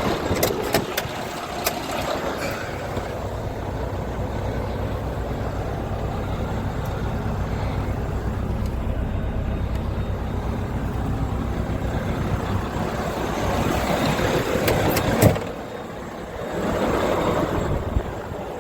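Heavy truck diesel engine, the Mack MP8 inline-six, idling steadily with an even low pulse. A few light clicks in the first two seconds, and a sharp click about fifteen seconds in, after which the sound dips briefly before rising again.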